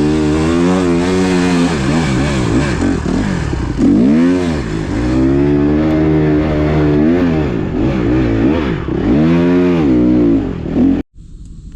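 Small single-cylinder four-stroke motocross bike riding a dirt track, its engine revving up and falling back again and again as the rider opens and closes the throttle. Near the end the engine cuts off abruptly and gives way to wind noise.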